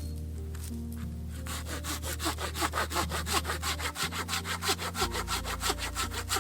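Wood being cut with a hand saw: quick, even back-and-forth strokes start about a second and a half in and keep going, over soft background music.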